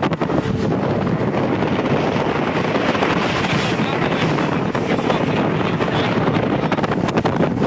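Steady wind rushing over a phone's microphone, with a few light knocks just after the start and again near the end.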